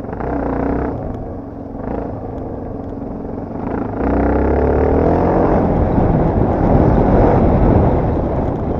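Yamaha TT250R single-cylinder four-stroke engine revving up and down while riding, its pitch climbing and falling with the throttle. It gets louder about four seconds in.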